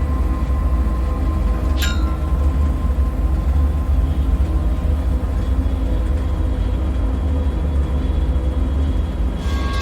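Dark bunker ambience: a steady deep rumble with faint humming tones over it. About two seconds in comes a brief sharp squeak that falls in pitch, and near the end a bright ringing, metallic-sounding clatter begins.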